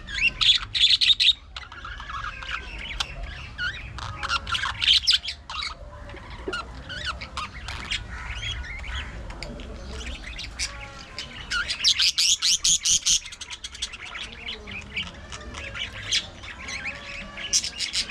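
A flock of budgerigars chattering, warbling and chirping, with louder bursts of rapid squawks at the start, around four to five seconds in, and again around twelve seconds in.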